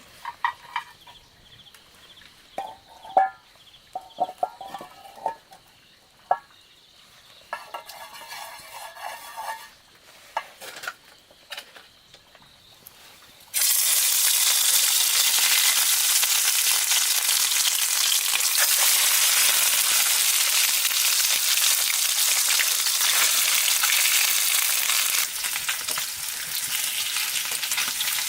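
Food frying in hot oil: a loud, steady sizzle that starts suddenly about halfway through, as if food has been dropped into the pan. Before it come scattered short calls and knocks, like a bird clucking.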